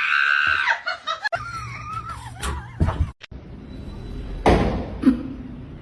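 A high-pitched scream held for under a second, then after a cut a wavering cry and a sudden loud noisy burst about four and a half seconds in.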